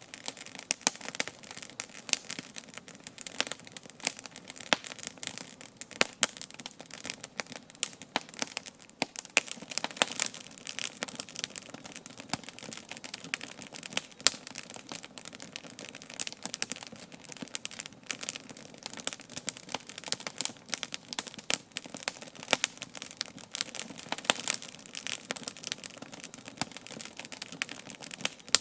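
Wood campfire crackling, with irregular sharp pops and snaps over a steady hiss of burning.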